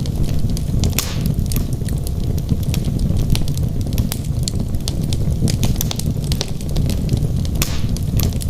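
Wood fire burning in a fireplace: a steady low rumble of flames with frequent sharp crackles and pops from the burning logs, and a couple of brief hissing swells.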